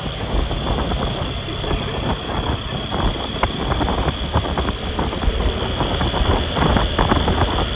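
Motorbike running steadily while riding on a bumpy road, with a continuous engine and road rumble, a steady high whine and frequent small knocks and rattles.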